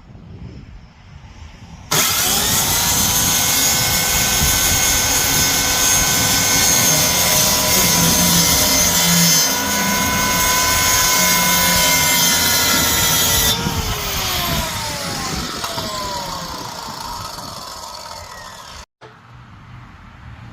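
An electric power tool's motor switched on with a quick rise in pitch, running loud and steady with a high whine for about eleven seconds, then switched off and winding down in falling pitch over several seconds.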